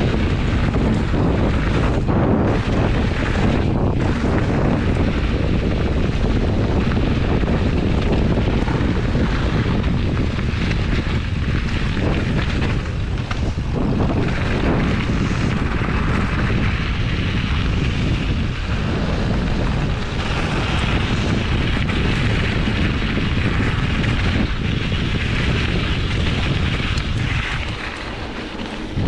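Wind rushing over the microphone of a camera on a moving mountain bike, a steady loud rumble with scattered knocks from the ride over the trail. It drops off briefly near the end.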